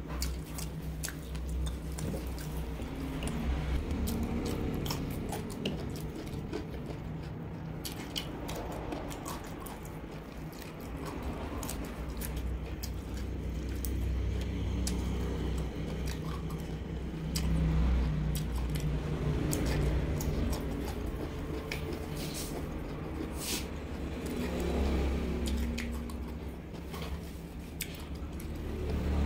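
Close-miked mouth sounds of someone eating roast duck: chewing and biting, with many small irregular clicks. A low steady hum runs underneath.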